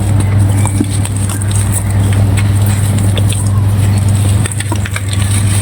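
Dry red sand clay crumbling in many small, crisp crunches and crackles, over a loud steady low hum.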